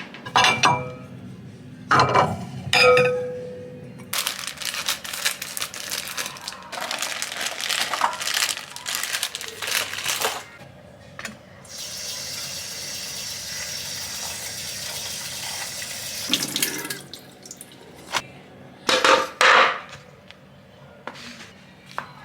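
Tap water running into a sink while items are washed, with ringing clinks and knocks as they are handled. A dense splashing patter gives way to a steady flow for a few seconds in the middle, and a couple of sharp clinks come near the end.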